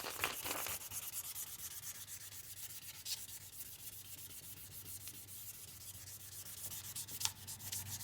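Sandpaper rubbed by hand over a plastic headlight lens in a quick, steady run of strokes, taking the yellowed surface off the headlight.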